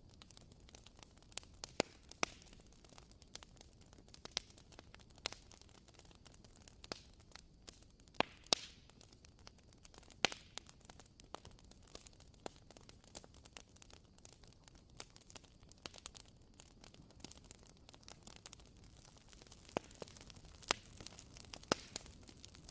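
Wooden wick of a WoodWick candle crackling as it burns: faint, irregular pops and snaps, like a small campfire.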